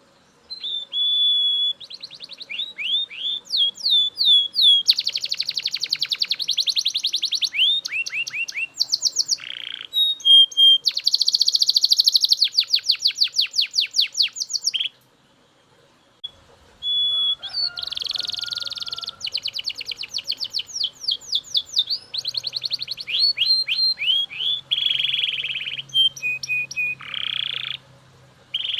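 Belgian canary singing: rapid trills and rolls of fast repeated, sweeping notes, in two long song phrases with a short break about halfway through.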